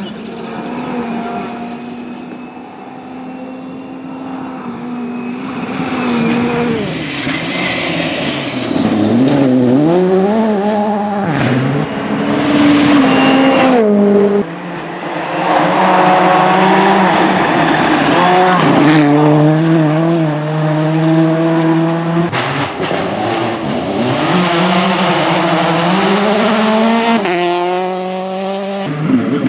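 Rally car engines at full throttle, revving up and dropping sharply again and again with gear changes, growing louder over the first ten seconds or so.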